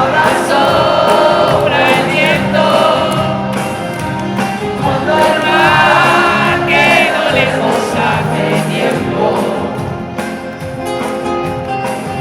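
Live band music played at full concert loudness, with many voices singing together over it.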